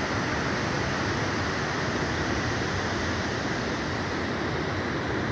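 Mountain stream rushing with a steady, unbroken noise of flowing water.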